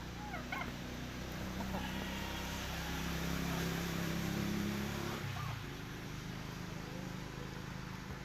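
A motor vehicle's engine running steadily, growing louder for a few seconds and then dropping away about five seconds in, with a few short high calls near the start.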